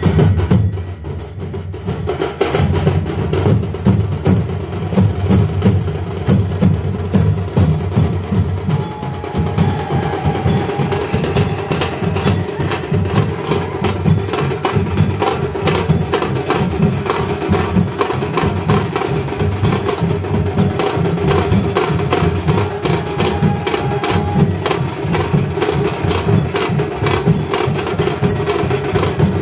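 Percussion-heavy music: drums under a fast, continuous stream of sharp clacking strikes. A short held note rises above it about nine seconds in and again later.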